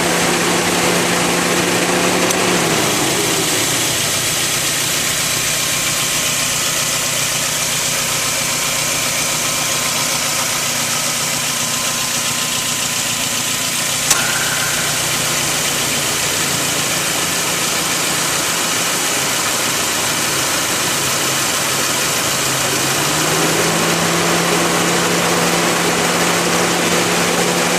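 Suzuki Grand Vitara engine idling with the A/C compressor running, its refrigerant, compressor oil and desiccant filter freshly renewed. The idle hum drops in pitch a couple of seconds in and rises back near the end, and there is a single sharp click about halfway through.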